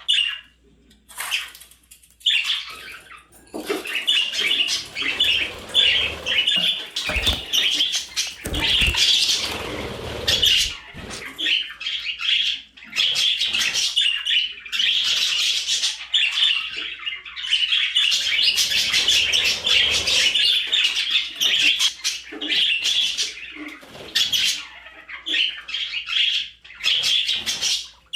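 Budgerigar chattering and chirping almost nonstop in quick, busy warbling phrases, with a few short pauses and some low thumps about a third of the way through.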